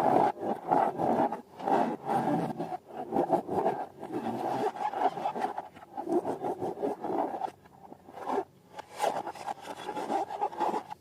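Irregular rubbing and scraping from balloons and slime being handled, in quick uneven strokes with a short lull about three quarters of the way through.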